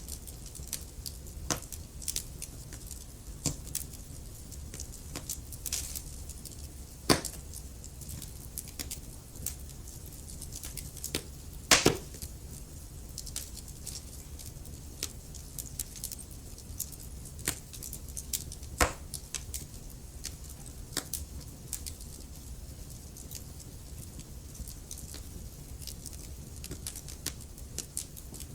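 Wood fire crackling: a steady low rumble of the flames with frequent small snaps and a few louder pops, the loudest about 12 seconds in.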